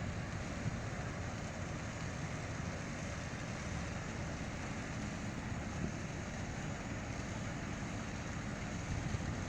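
Steady outdoor background noise, an even rumble with hiss.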